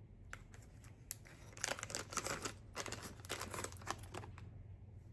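Packaging crinkling and rustling in the hands: a run of quick, irregular crackles starting under two seconds in and lasting about three seconds, with a few separate light clicks.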